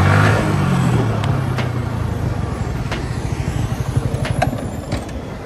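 Motorcycle engine note falling in pitch as the bike slows over the first second or so, then running steadily lower with road noise and a few sharp clicks.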